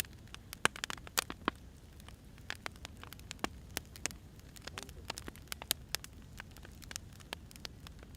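Wood fire crackling: irregular sharp pops and snaps from burning logs over a steady low rumble of the flames.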